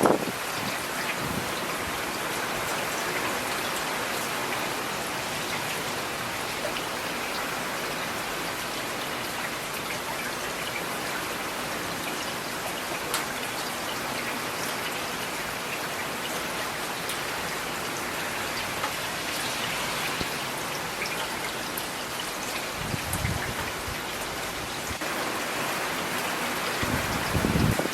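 Steady rain falling, with individual drops ticking now and then. Two brief low rumbles come near the end, the second the louder.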